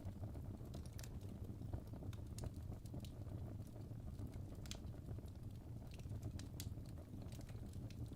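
Campfire burning: irregular sharp crackles and snaps, a few every second, over a steady low rumble of the flames.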